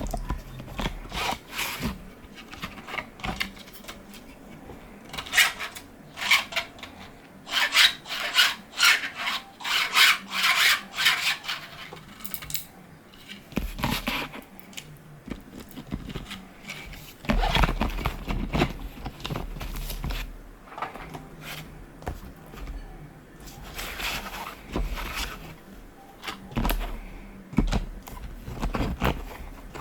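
3D-printed plastic parts rubbing and scraping against each other as they are handled and slid together, in irregular strokes with a fast run of several a second in the first half.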